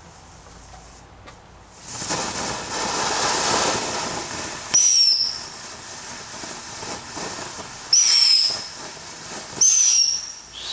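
A lit firework starts hissing and spraying about two seconds in, and gives off three short, shrill whistles, each dropping slightly in pitch, at roughly three-second intervals.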